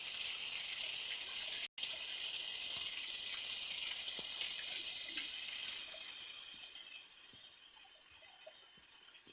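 River water rushing over rocks, a steady hiss that cuts out for a moment about two seconds in and eases somewhat after about six seconds.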